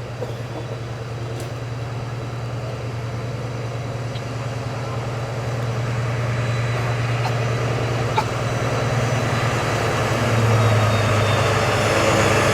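Diesel locomotive engine running with a steady low hum, growing steadily louder as the locomotive approaches.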